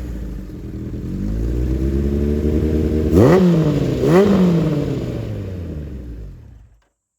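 1978 Kawasaki Z1-R's air-cooled inline-four running through a steel megaphone exhaust. The revs swell and sink, with two quick throttle blips about a second apart in the middle, then the sound dies away and cuts out near the end.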